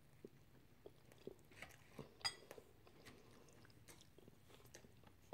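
Faint close-up chewing of a mouthful of chicken casserole: soft, scattered mouth clicks and wet smacks, with one sharper click a little over two seconds in.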